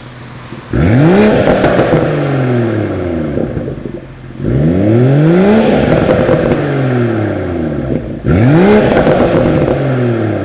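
BMW Z4 M40i's turbocharged inline-six blipped three times through an aftermarket ARP valved exhaust, each rev rising sharply and dropping back slowly, with popping and crackling from the exhaust as the revs come down.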